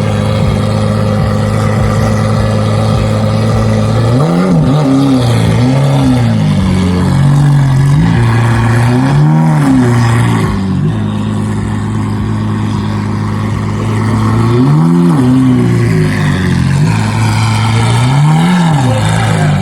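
Car engine idling, blipped five times with short revs of the throttle that rise and drop straight back to idle.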